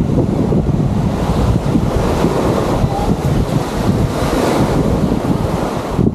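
Wind buffeting the microphone with a loud low rumble, over the wash of small waves on the shore. The hiss of the surf swells for a while midway through.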